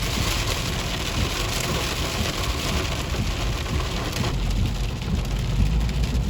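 Rain hitting a moving car, heard from inside the cabin, over a steady low rumble of tyres and road. The hiss of the rain eases about four seconds in while the low rumble goes on.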